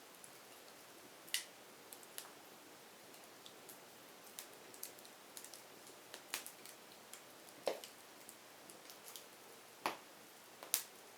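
Burning firewood crackling: irregular sharp pops and snaps over a faint hiss, the strongest pops scattered a second or two apart.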